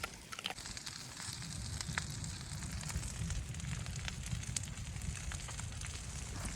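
Wood fire crackling with scattered sharp pops, over a steady low rumble of wind.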